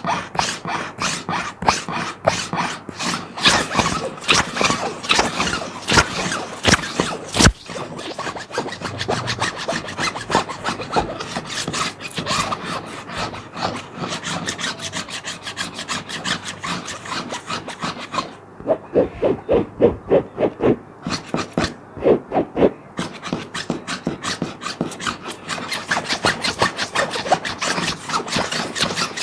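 A plastic sheet being scratched in quick, continuous strokes, a dense crackly rasping. For a few seconds past the middle the strokes turn duller and more evenly spaced before the quick scratching resumes.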